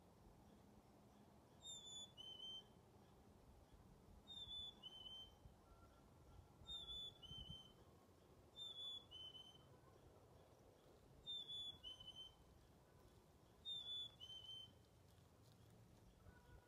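A songbird whistling a clear two-note song, a high note then a slightly lower one, repeated six times about every two seconds.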